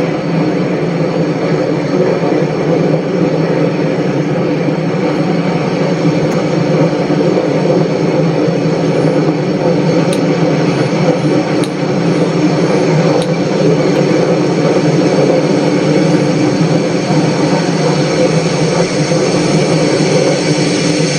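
Train running steadily: a continuous loud rumble with a constant droning hum, and a few faint ticks partway through.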